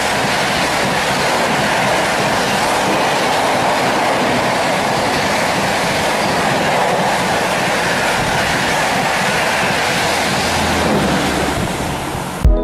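Howrah Rajdhani Express coaches passing through a station at speed: a loud, steady noise of wheels running on the rails that cuts off suddenly near the end.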